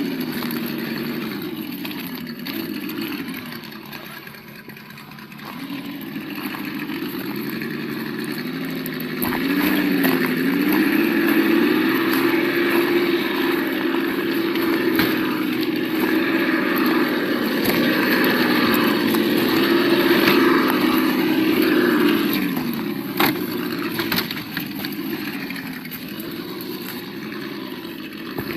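Simulated engine sound from the Absima Yucatan 1:8 RC model's sound module, played through its small speaker. It runs low and drops back a few seconds in, then rises to a higher, steady note about ten seconds in and eases down again a few seconds before the end, with occasional clicks.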